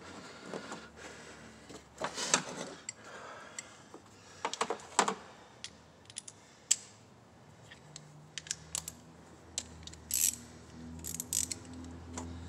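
Irregular metallic clicks and clatters of hand tools, a socket ratchet with extensions, while spark plugs and plug wires are being changed, with a few quick bursts of clicking. A faint low steady hum comes in past the middle.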